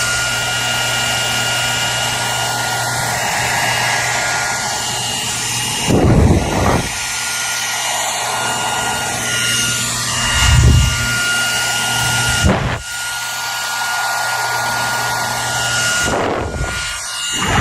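Hair dryer running steadily, a constant rush of air with a faint steady whine from its motor. Four times it gives a brief louder, deeper whoosh.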